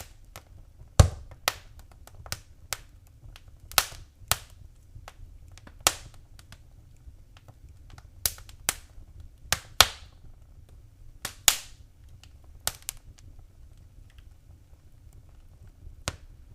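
Wood fire crackling in a fireplace: irregular sharp pops and snaps from the burning logs, a dozen or more, some louder and ringing briefly, over a faint low rumble of the flames.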